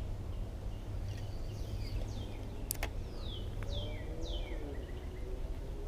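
A bird calling in a series of short notes that each slide downward, over a steady low rumble, with one sharp click partway through.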